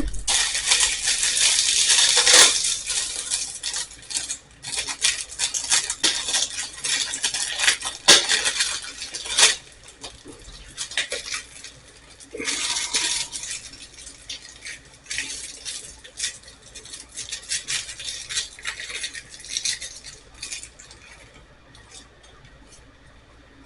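Metal clinks, rattles and scraping from a hand screwdriver and screws as a dryer receptacle and its cover are fastened by hand. These come in irregular bursts, busiest in the first few seconds and fading toward the end.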